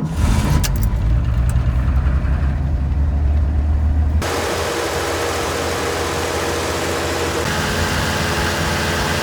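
1986 Ford F-150 engine firing right away on a cold start and running at a fast, uneven idle. About four seconds in, a steady hiss joins the engine sound, and near the end the idle settles into a steadier, even note.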